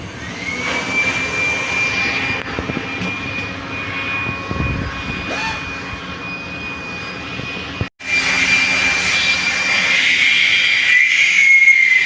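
A steady high-pitched mechanical whine over a running-machine noise, rising up to speed at the start. The sound cuts out for an instant about eight seconds in and then carries on.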